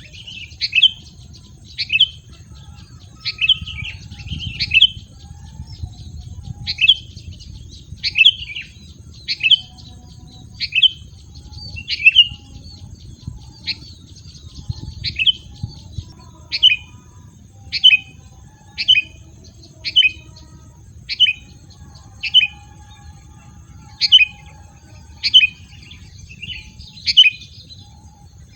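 A wild songbird giving short, sharp calls that drop in pitch, repeated about once a second, with a faint steady high-pitched tone behind.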